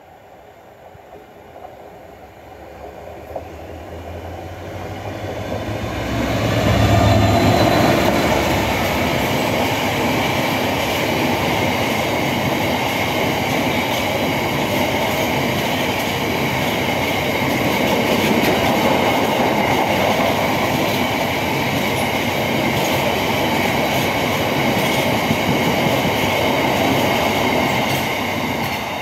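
Class 66 diesel-electric freight locomotive, with its EMD two-stroke V12 engine, approaching and passing, loudest and deepest about seven seconds in. A long rake of empty bogie ballast wagons then rolls past with a steady wheel rumble and a continuous high-pitched tone, easing off near the end.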